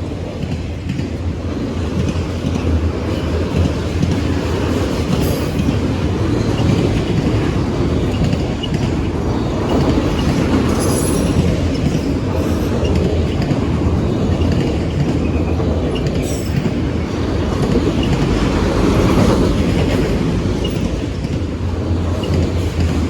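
Freight train of CSX autorack cars rolling past close by: a steady, continuous rumble of wheels on rail, with a few brief sharp sounds about 5, 11 and 16 seconds in.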